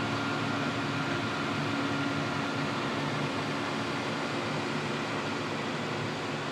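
John Deere 6155M tractor running steadily, a constant hum of engine and fan with a few held tones.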